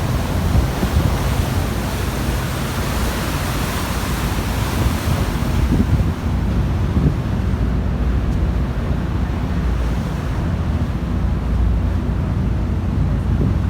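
Wind buffeting the microphone over the rush of sea water, heard aboard a ferry. The higher hiss of the water dies down about six seconds in, and the low wind rumble carries on.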